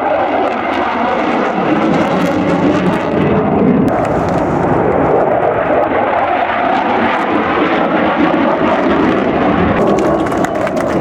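Airplane engine running steadily in flight, a continuous drone.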